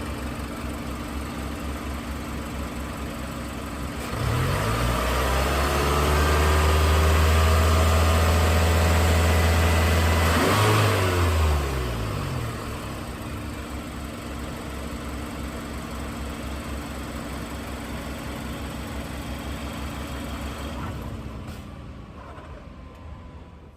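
Car engine running, revving up about four seconds in and held high for several seconds, then dropping back and running steadily lower until it fades out near the end.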